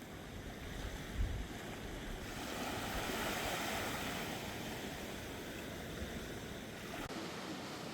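Sea waves washing in with wind on the microphone, swelling a few seconds in, with a short low thump about a second in.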